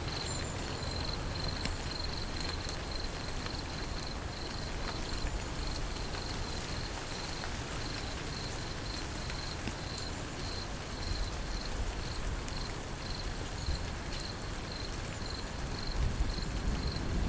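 Steady rain falling, with an insect chirping high and steady in even pulses about twice a second.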